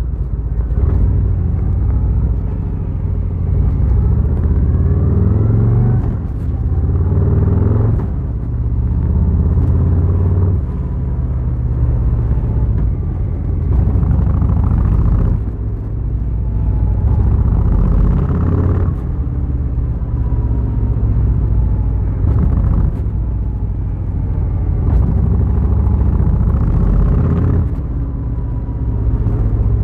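Harley-Davidson Fat Boy's air-cooled V-twin engine rumbling while riding. Its pitch climbs repeatedly as the bike accelerates, with short dips in between as the throttle eases or it changes gear.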